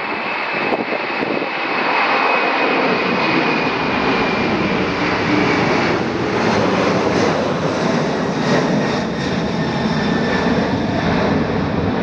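Boeing 747-400 freighter's four jet engines running loud and steady, with a thin high whine that slowly falls in pitch.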